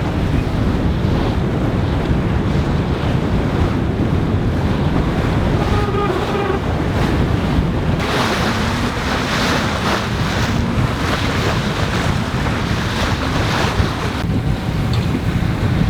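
Wind buffeting the microphone over the rush of sea water along a sailing yacht's hull under way. About halfway through, a brighter hissing wash of water comes in for several seconds.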